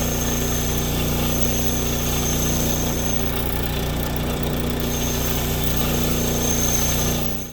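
Motor-driven wire wheel spinning steadily, its bristles hissing as they scrub corrosion off a seized brake caliper slide pin. A thin high whine rides over the motor hum and drops out briefly midway.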